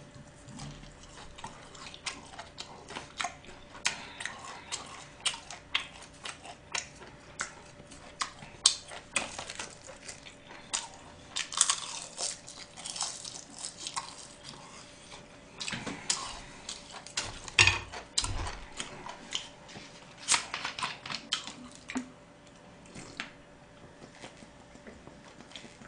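Close-up chewing and mouth smacking of someone eating gwamegi, chewy half-dried fish wrapped in seaweed: many short, irregular wet clicks, with light clinks of chopsticks on dishes.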